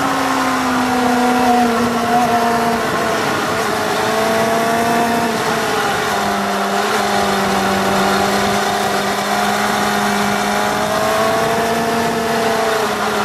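Honda motorcycle engine running at steady road speed along winding curves, its note easing up and down gently and dropping to a lower, steady pitch about six seconds in. Wind and road noise run underneath.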